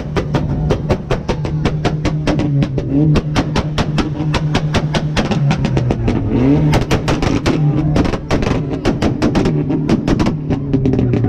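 A revving car engine with a rapid string of loud exhaust pops and crackles, several a second, all the way through: backfire. The revs climb just before the start, again about 3 seconds in and about 6 seconds in.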